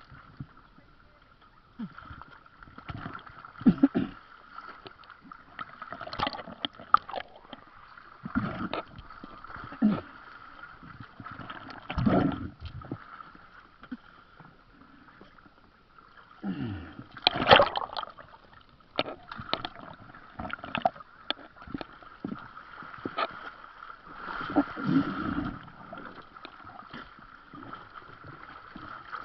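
Water gurgling and splashing in irregular bursts, with scattered knocks, over a steady high-pitched hum.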